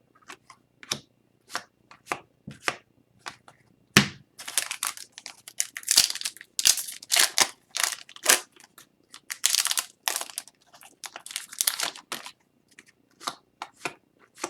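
Hockey card pack wrappers being torn open and crinkled, with cards handled. The sound comes as a quick run of short rustles and snaps that is busiest through the middle.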